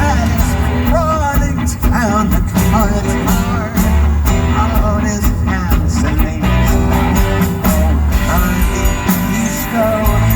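A live rock band playing an instrumental passage: a bending, wavering lead melody over a steady bass and drums.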